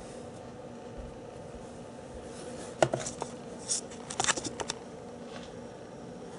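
Clear acrylic discs being handled: a few light clicks and scrapes between about three and five seconds in, over a faint steady hum.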